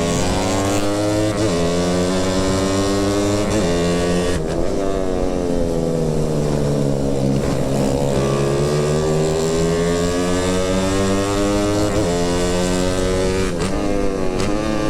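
Motorcycle engine under way, its pitch rising and falling as the throttle is opened and eased, with several brief dips like gear changes, over a steady hiss.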